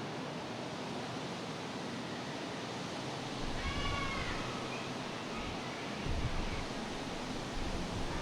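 Strong wind blowing, with low gusts buffeting the microphone about three seconds in and again near the end. About halfway through, a single short, distant rising-and-falling call sounds over the wind.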